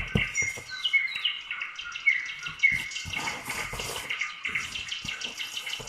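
A small bird chirping repeatedly in short, falling chirps, loudest about two seconds in, over light tapping and rustling.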